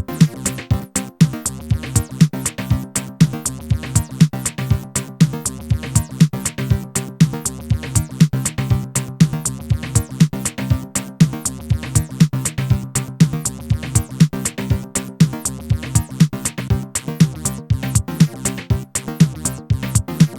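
Techno loop from a drum machine and synthesizer: a steady beat of about two hits a second with quicker ticks between, over a repeating synth bass line.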